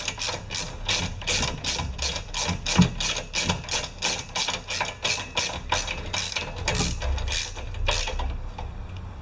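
Hand ratchet wrench clicking steadily, about four clicks a second, stopping shortly before the end.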